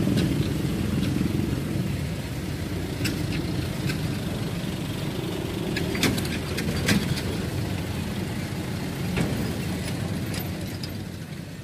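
Low rumble of a departing diesel-hauled passenger train receding along the line, fading slowly, with a few sharp clicks over it.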